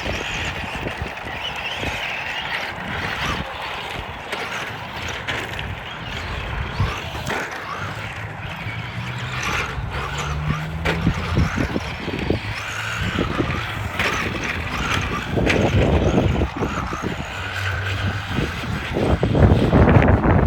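Electric radio-controlled truck's motor whining, rising and falling in pitch as the throttle is worked, with scattered knocks as the truck bounces over the ground. It gets louder near the end.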